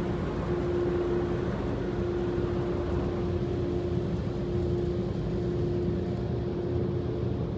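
Steady machine hum with one constant tone held throughout, heard from inside a car's cabin during an automatic car wash.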